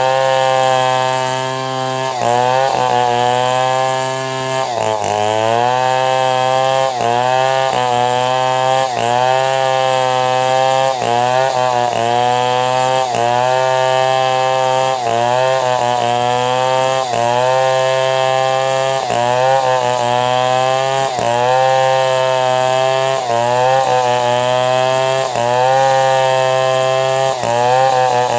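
Two-stroke chainsaw running at high throttle while ripping a log into planks, its engine pitch sagging under the cut and recovering about once a second, with a deeper dip about five seconds in.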